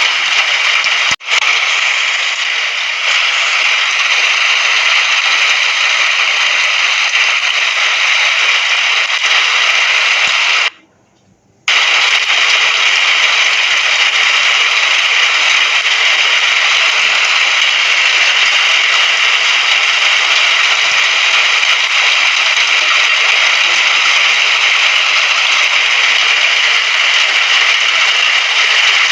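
Steady rain hiss. It cuts out for an instant just over a second in, then drops to near silence for about a second around eleven seconds in before resuming, like joins in a looped recording.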